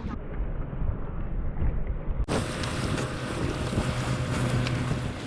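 Wind rumbling on the microphone over water lapping at a kayak on open water. The sound turns suddenly brighter about two seconds in.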